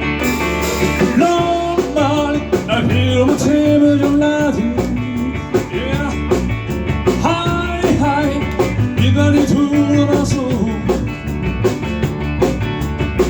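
A live rock band playing a blues-rock number with drums and bass. Over them a lead line plays bending, sliding notes.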